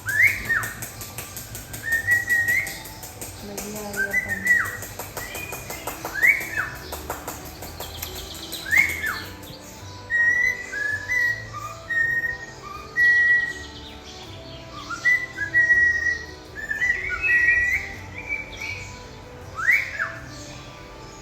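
Pet cockatiels whistling and chirping. Sharp up-and-down sweeping calls come every couple of seconds, with a string of short, level whistled notes in the middle.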